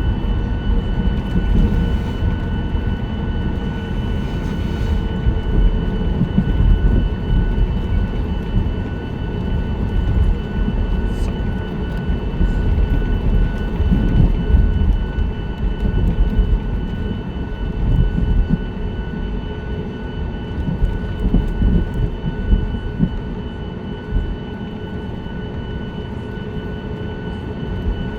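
Cabin noise of an Aeroméxico Boeing 737-9 MAX with its CFM LEAP-1B jet engines: a steady high whine over an uneven, bumpy rumble.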